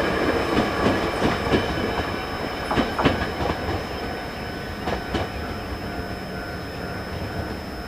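Train rolling along the track, its wheels clacking over rail joints in pairs of sharp clicks over a running rumble. The sound grows steadily fainter.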